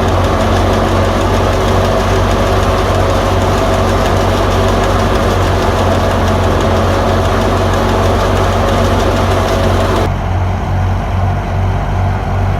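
Al-Ghazi tractor engine running steadily under load, driving a wheat thresher whose dense whirring and rushing noise sits over the engine. About ten seconds in, the rushing noise drops away suddenly, leaving the engine's lower, pulsing run.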